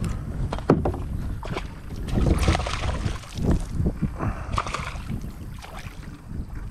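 Water splashing and sloshing in irregular bursts as a hooked smallmouth bass is played to the net.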